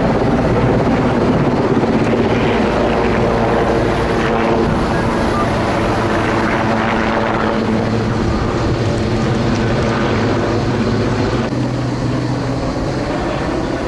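Firefighting aircraft running overhead: a loud, steady engine drone that eases off slightly near the end.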